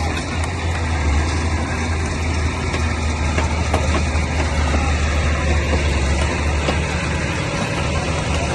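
Crawler bulldozer's diesel engine running steadily with a deep, even drone, with a few sharp clanks over it.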